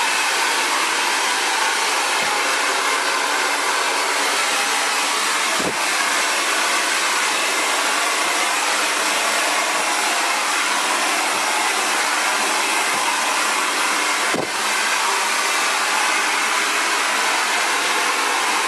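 Xtava Allure 2200-watt ionic ceramic hair dryer running steadily, blowing out curly hair: a loud, even rush of air. Two brief dips in the rush come about six and fourteen seconds in.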